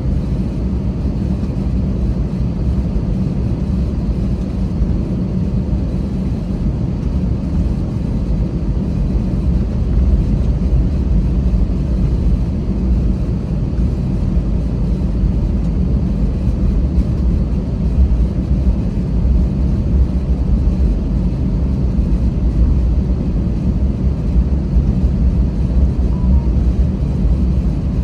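Steady low rumble of an Airbus A320's jet engines and airframe heard inside the passenger cabin, growing a little louder about ten seconds in.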